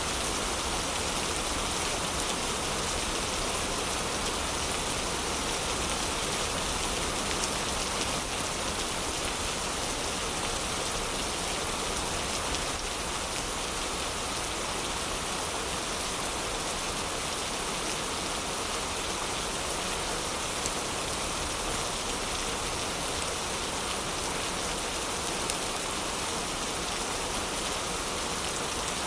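Heavy rain falling steadily, with a few faint pops from a crackling wood fire.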